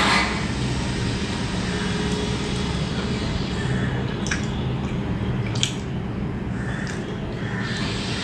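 Someone eating with soft, squishy chewing and mouth sounds and a few sharp little clicks, over a steady low hum.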